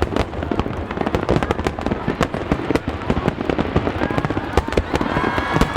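A fireworks display with aerial shells bursting in rapid succession: many sharp bangs crowd one upon another without a break.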